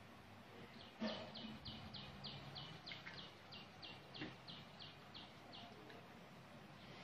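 A bird calling in the background: a run of about sixteen short, high chirps at about three a second, lasting some five seconds. A soft thump comes as the chirps begin and another a little past the middle, over a faint steady room hum.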